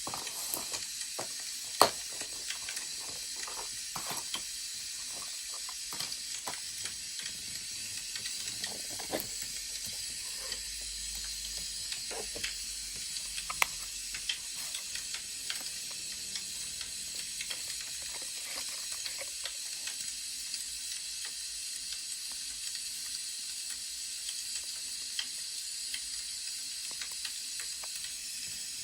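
Wood fire crackling: a steady hiss with scattered sharp pops and snaps.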